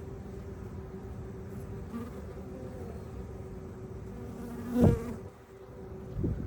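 Honeybees buzzing steadily, with one louder buzz swelling briefly about five seconds in.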